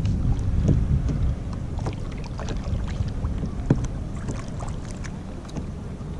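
Kayak on the water: light splashes and drips from the paddle and hull, over wind rumbling on the microphone that eases after the first second or so.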